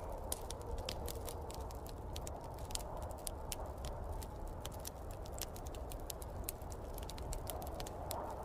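Wood fire crackling with many small, irregular sharp pops, over a steady low rumble and the hiss of snowstorm wind.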